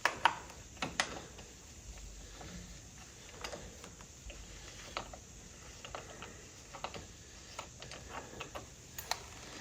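Faint, irregular light metallic clicks and ticks from a socket wrench and spark plugs being worked out of a tractor engine, with a quicker run of ticks near the end.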